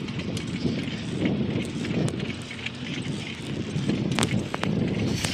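Wind buffeting a handheld camera's microphone while riding a bicycle, an uneven pulsing rumble with road noise, broken by a few sharp clicks and rattles, two of them near the end.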